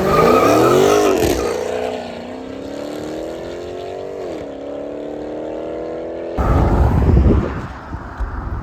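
A car engine revs sharply, then pulls away with its pitch climbing steadily, dropping once at a gear change about four seconds in and climbing again. About six seconds in it gives way abruptly to a loud, rough rumble.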